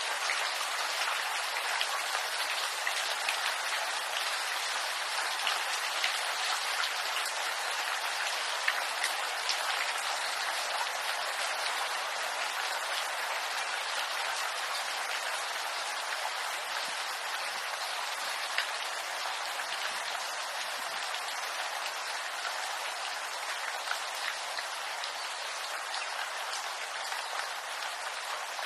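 Steady rain pattering on bamboo leaves, a dense hiss full of small drop ticks.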